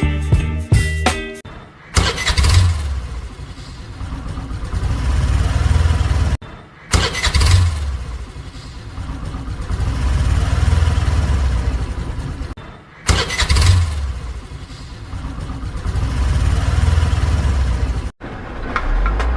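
Vehicle engine starting and running, the same start-and-run sound heard three times in a row, each take cutting off suddenly. Music plays briefly at the start.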